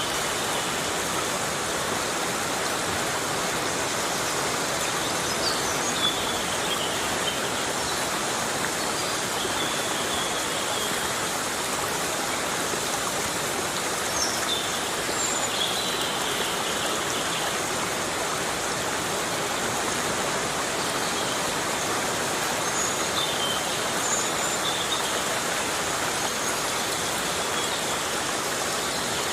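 Heavy rain falling steadily in a forest, a dense even hiss of water. A few faint high chirps come through now and then.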